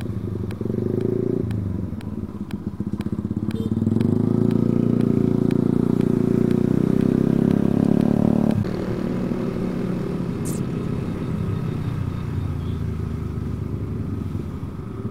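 Yamaha R15 motorcycle's single-cylinder engine heard from the rider's seat while riding. It builds revs over the first few seconds and holds high and steady. About eight and a half seconds in the revs drop suddenly, and it runs on at a lower, steady pitch.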